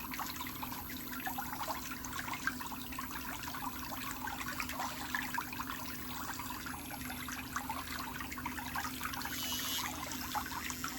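Steady trickling, bubbling water over a constant low hum, with many small crackles.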